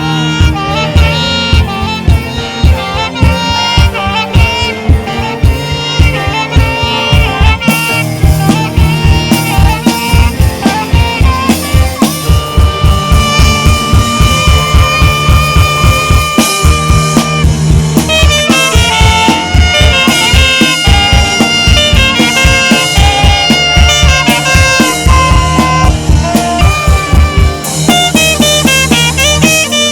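Live saxophone solo playing a melody over a band with drum kit and bass keeping a steady beat.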